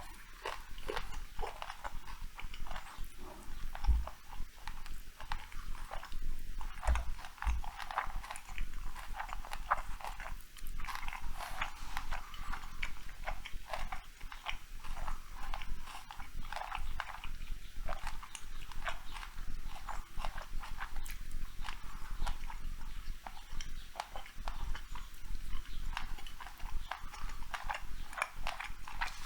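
A cat eating meat close to the microphone: a quick, irregular run of wet chewing clicks and smacks.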